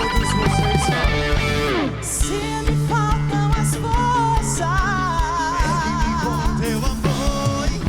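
Rock band music: electric guitar, bass and drums, with a sustained melody line that wavers with vibrato through the second half.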